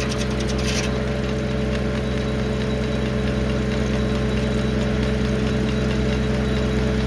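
1952 Farmall H tractor's four-cylinder engine running steadily at an even speed, with a burst of rapid clicking during the first second.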